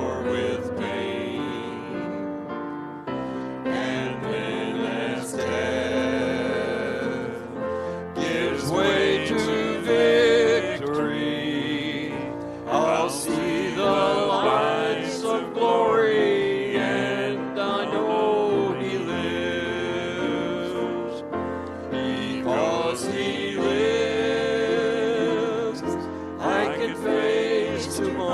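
Church music: singing with wavering held notes over a steady sustained accompaniment.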